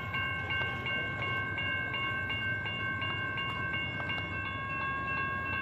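Railroad grade-crossing warning bell ringing steadily at a little under three strikes a second: the crossing signals are active, warning of an approaching train as the gates lower.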